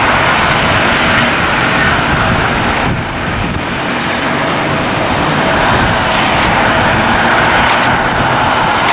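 Jet aircraft engines running, a loud, steady rush with a faint steady tone through it; a few short clicks come near the end.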